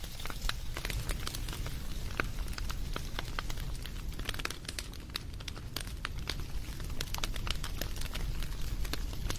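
Wood fire burning, with frequent irregular pops and crackles over a low steady rumble of the flames.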